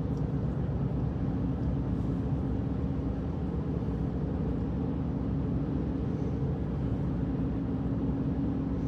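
Steady drone of tyres and engine heard from inside the cabin of a four-wheel-drive vehicle cruising on a snowy interstate, with a faint steady hum running underneath.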